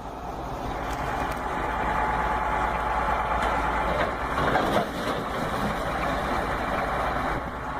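Steady vehicle engine and road noise, with no sudden impacts.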